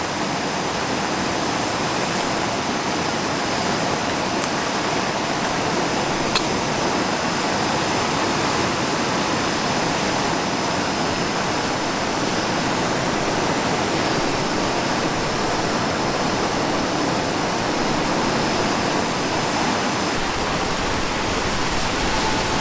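River water flowing, a steady, even rushing with a couple of faint ticks.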